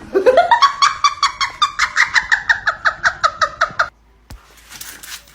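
An animal calling in a fast, even string of high, pitched calls, about seven a second. The calls rise in pitch at the start, then hold steady and stop abruptly about four seconds in.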